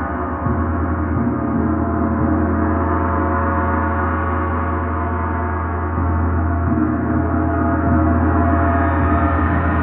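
Gong ringing continuously: a dense wash of sustained overtones over a deep, pulsing hum.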